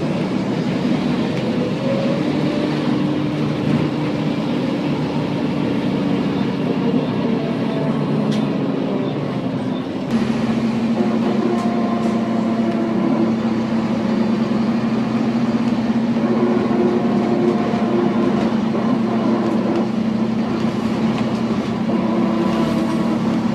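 Volvo B7TL double-decker bus under way, its 7.3-litre engine and driveline running with steady whining tones from the differential, an odd diff sound. The whine's pitch shifts about ten seconds in.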